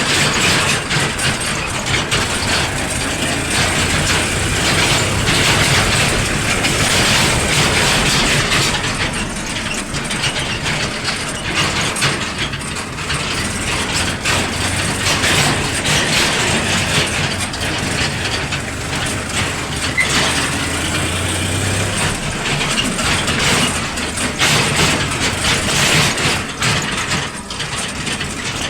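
Heavy diesel machinery running, with a low steady engine hum under continuous mechanical clatter and rattling.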